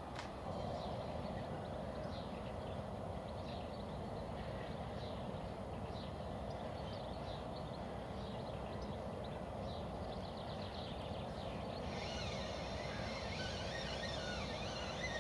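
Small birds chirping and singing over a steady low background rush. About twelve seconds in, a faster, denser warbling song joins.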